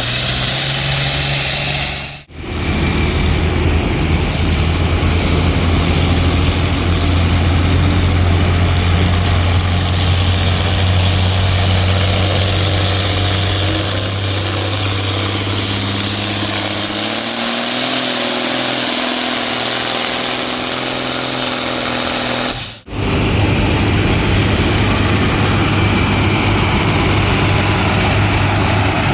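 A tractor-pull tractor's engine running hard under load, with a high whine that climbs in pitch near the middle. The sound cuts out abruptly twice, briefly.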